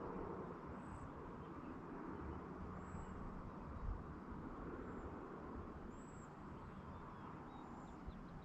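Evening countryside ambience: a steady low rumble and hiss, with a short, high, thin chirp repeating about once a second.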